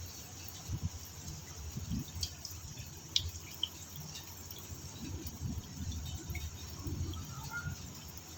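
Rain falling, a steady hiss with scattered sharp drips, under irregular low rumbling.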